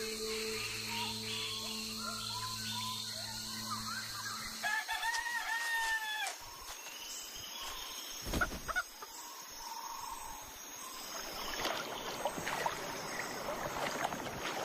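A rooster crowing once about five seconds in, after a steady insect hum and low sustained tones that stop just before it. Afterwards there are scattered bird chirps and one sharp knock.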